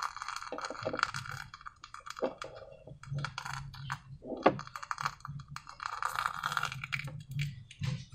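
Sticky slime being squeezed and worked by hand, making a dense run of small wet clicks and crackles that comes in clusters.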